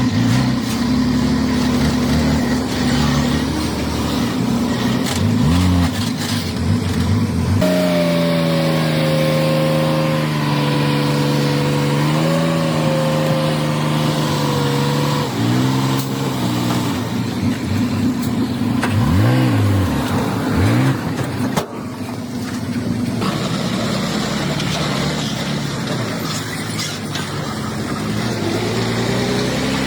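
Heavy diesel engines of dump trucks and a bulldozer at work, running steadily with the revs rising and falling several times and a held high-revving note for several seconds in the middle.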